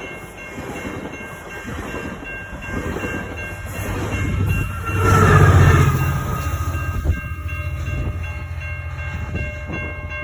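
An EMD F59PH diesel locomotive passing, its engine loudest about five seconds in. It is followed by wheels clacking over rail joints, with a few steady high tones throughout.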